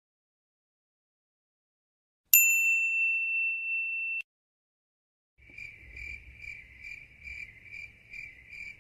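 A single bright ding, a struck bell-like tone that rings for about two seconds and then cuts off. A second later comes a cricket chirping steadily about twice a second over a faint low hum, the stock 'crickets' sound effect.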